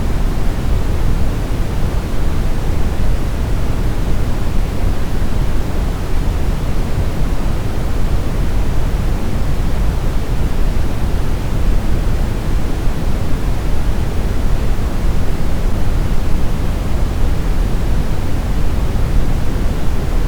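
Smoothed brown noise: a steady, even rushing hiss with most of its weight in the deep low end and little in the highs.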